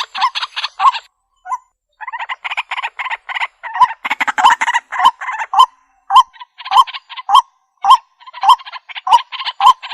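Waterhen (jal murgi, a rail) calling: a fast run of short, harsh, croaking notes, about two to three a second, each with a brief rising tone. The calls pause for about a second near the start, then carry on.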